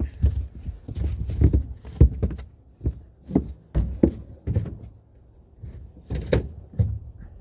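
Wind gusting on the microphone as a low, uneven rumble, with scattered knocks and thumps; no chainsaw running.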